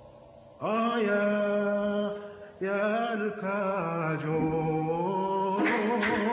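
A man's voice singing long, held notes in a chanting style. It starts about half a second in and pauses briefly about two and a half seconds in.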